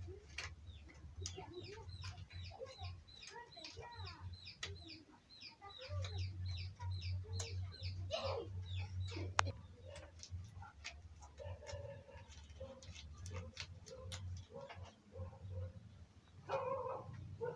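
Birds calling, most likely domestic fowl: many short, high chirps, two or three a second, with some lower calls mixed in, over a steady low hum.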